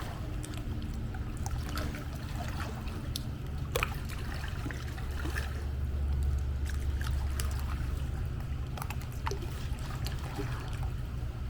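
Pool water sloshing and trickling as a swimmer kicks through an exercise, with scattered small drips and splashes over a steady low rumble.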